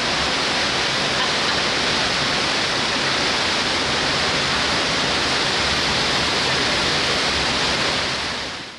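Heavy rushing water: a steady, loud, even rush that fades out near the end.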